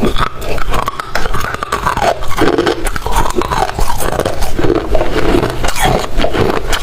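Close-up biting and chewing of crunchy freezer frost, a dense run of crackling crunches.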